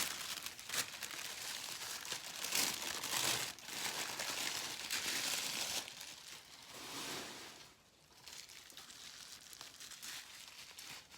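Wrapping crinkling and rustling in the hands as a packed item is unwrapped, in bursts for about six seconds before it goes much quieter.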